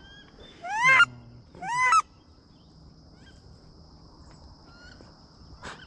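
Two loud goose honks about a second apart, each rising then falling in pitch.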